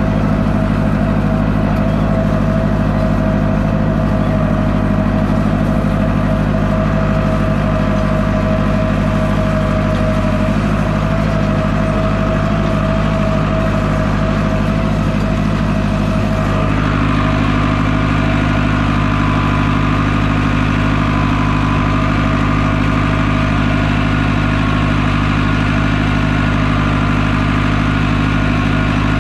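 Tractor engine running steadily at a set speed while pulling a hay baler in the field. The engine's tone shifts about two-thirds of the way through.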